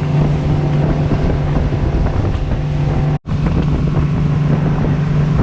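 Boat motor running at a steady pitch while the boat is underway, with wind buffeting the microphone. The sound cuts out for an instant about three seconds in, at an edit.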